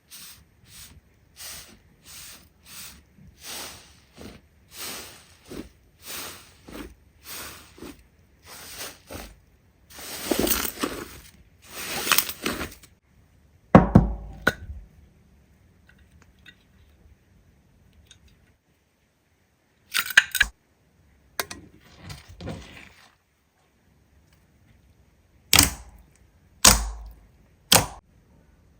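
Slime being squeezed and poked by hand, making a run of even sticky pops, about two a second. Louder crackling follows about ten seconds in, then a few sharp cracks and knocks.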